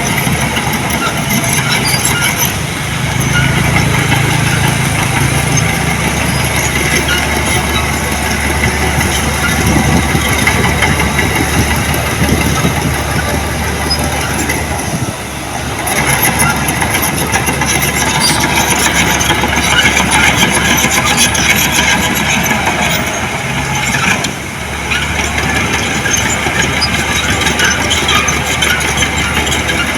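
Diesel engine of heavy earthmoving equipment running steadily, with two short dips in loudness, about halfway through and about three-quarters of the way through.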